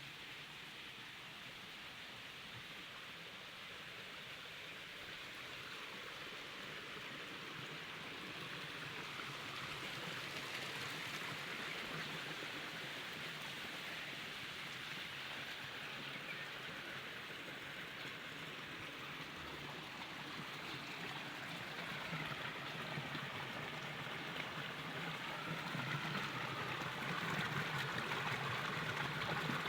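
Water flowing in a small stream: a steady rushing that grows gradually louder toward the end.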